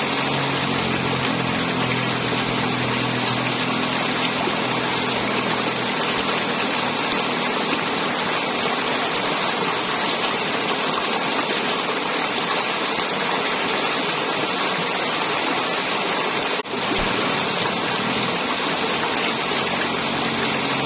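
River water flowing and gurgling in a steady rush. A low steady hum sits underneath in the first few seconds and again near the end, and the sound dips for a moment about 17 seconds in.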